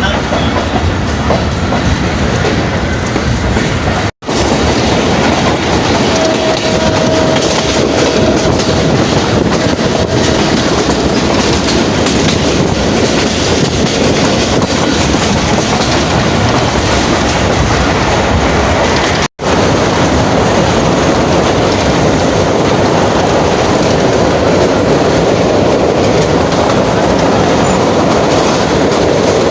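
Karachi Circular Railway passenger train running, heard from inside the moving carriage: a loud, steady rumble of wheels on the track with clickety-clack. A faint thin whine rises above it for a few seconds about six seconds in. The sound cuts out for an instant twice.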